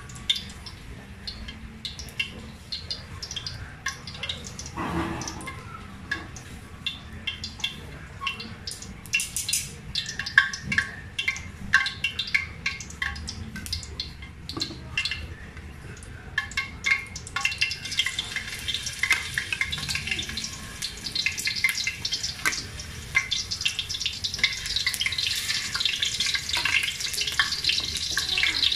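Carrot cubes frying in hot oil in a wok: scattered crackles and pops at first, then a denser sizzle that grows louder past the middle.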